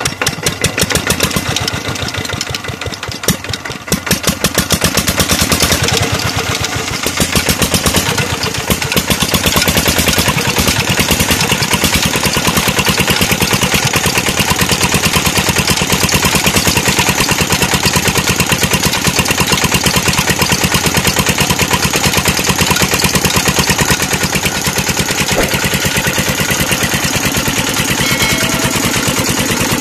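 Petter-type single-cylinder diesel engine of a tube well running with a fast, even firing beat. It gets louder and steadier about four seconds in, then keeps running evenly.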